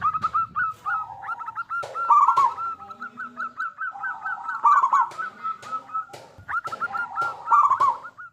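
Zebra doves (perkutut) cooing: rapid runs of short, staccato, repeated notes that overlap one another at slightly different pitches, with a few sharp clicks among them.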